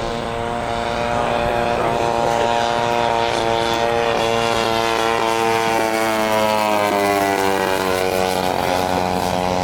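Radio-controlled P-40 Warhawk model aircraft's engine and propeller buzzing in flight. The pitch holds steady, then falls over a few seconds past the middle as the plane passes.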